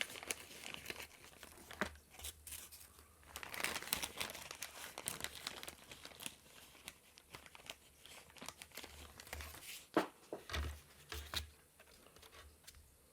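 Packing foam salvaged from IC packaging being handled and torn into pieces: irregular crinkling and tearing with small clicks, in two busier spells, quieting near the end.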